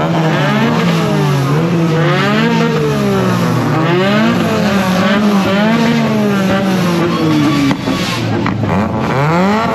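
A modified car's engine revved repeatedly while standing still, pitch climbing and falling about once a second, with a sharp rev near the end.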